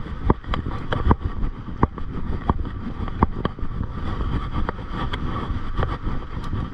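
Mountain bike riding over a rough dirt trail: steady wind and rolling rumble on the microphone, with frequent sharp clicks and knocks as the chain and bike rattle over bumps.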